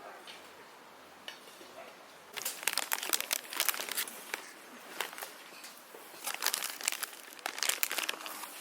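A plastic wrapper crinkling as it is handled, a dense run of sharp crackles starting about two seconds in.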